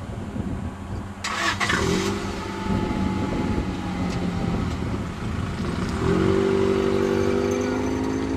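Car engine running, with a brief noisy burst about a second in; from about six seconds in it grows louder and rises slowly in pitch as the sedan accelerates away from the curb.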